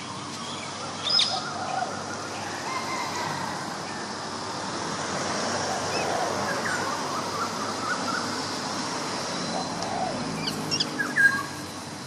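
Short bird chirps and calls, a sharp one about a second in and a quick cluster near the end, over a steady background hiss.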